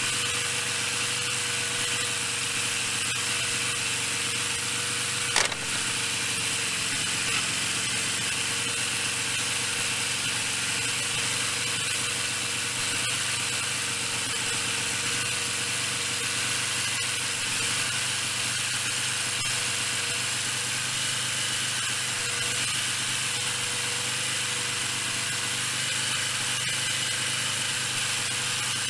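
Yamaha XJ650's air-cooled inline-four idling steadily on its freshly resealed carburetors, with one sharp click about five seconds in.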